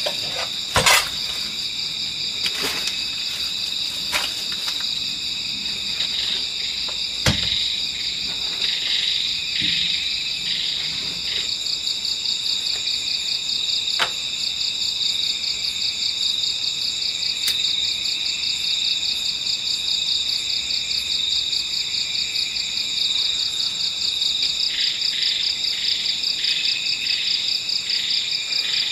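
Insect chorus, crickets among them, trilling steadily and high. A second, slower pulsing call joins at times, and there are a few sharp clicks.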